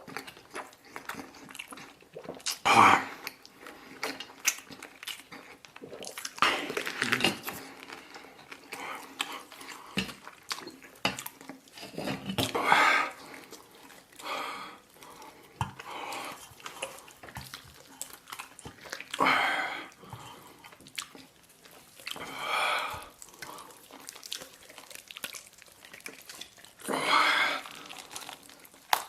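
A person eating close to the microphone: wet chewing and smacking with small clicks, broken every few seconds by a loud slurp or gulp, about eight in all.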